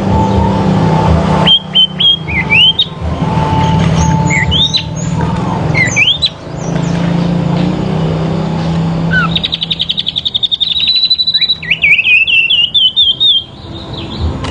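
Sirpu songbirds in a singing duel: sharp rising chirps and fast high trills traded back and forth, with a long rapid trill near the end. A steady low hum runs beneath the calls.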